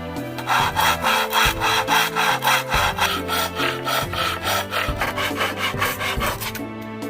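Hand saw cutting wood in quick, even back-and-forth strokes, about three to four a second, starting about half a second in and stopping near the end.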